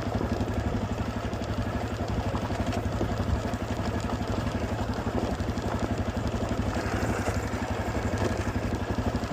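Honda CRF250 dirt bike's single-cylinder four-stroke engine running at low, steady revs with a fast, even pulse while the bike descends a steep hill.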